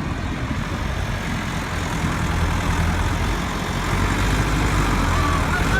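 Vehicle engine running steadily with a low hum, getting a little louder about two seconds in, during a recovery from desert sand.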